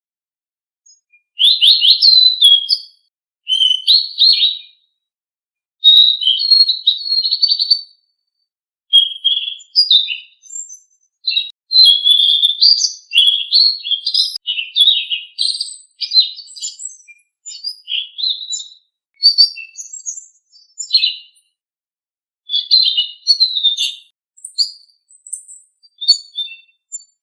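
A songbird sold in Indonesia as 'selendang biru' sings in bursts of rapid chirps, trills and short whistled phrases. It is a high, busy song, broken by several clean pauses of about a second.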